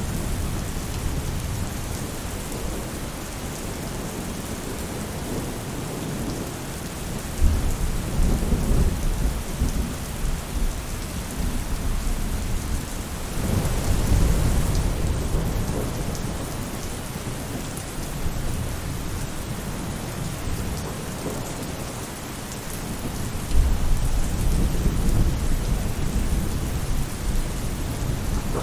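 Steady rain falling on a roof, with rolls of low thunder rumbling in three times, about 7, 13 and 23 seconds in.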